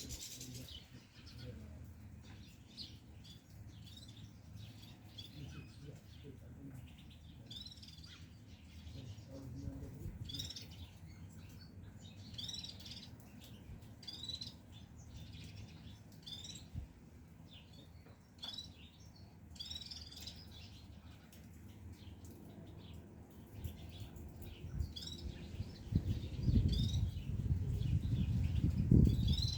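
Caged goldfinches chirping, many short calls coming one after another throughout. Near the end a louder low rumbling noise comes in under the chirps.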